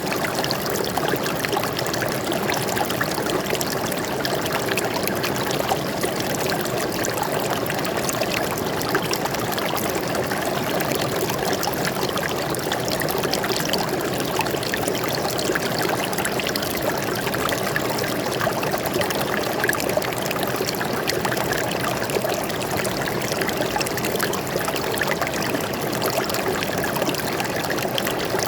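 Stream water flowing and trickling steadily over rocks, a continuous splashing babble with no pauses.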